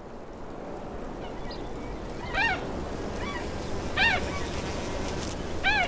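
A bird calling: three loud, short honking calls, each rising and falling in pitch, about a second and a half apart, with fainter calls between them over a steady background hiss.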